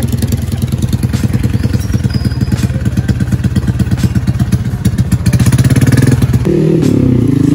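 Honda Supra X underbone motorcycle's single-cylinder four-stroke engine idling with a rapid, even putter; about six and a half seconds in the revs rise into a steady hum as the bike moves off.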